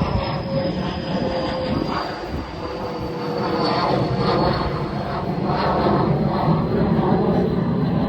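An aircraft passing overhead: a steady rushing engine noise with a thin whine that slowly falls in pitch.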